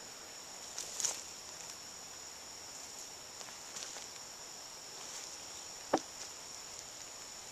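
Steady high-pitched insect chorus, a constant shrill buzz on two close pitches, with a few faint clicks; the sharpest click comes about six seconds in.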